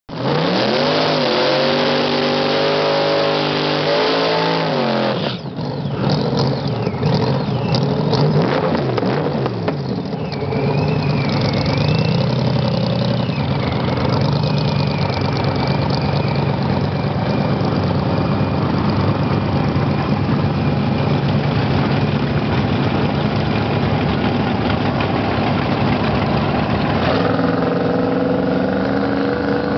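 Muscle-car engines at a drag strip's starting line, idling loudly and being revved, the pitch swelling and dropping in the first few seconds. Near the end one engine's revs climb steadily.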